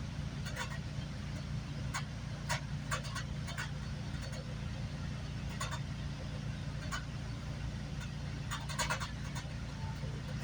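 Inside a moving GO Transit commuter train: the steady low rumble of the train running, with scattered sharp clicks and rattles.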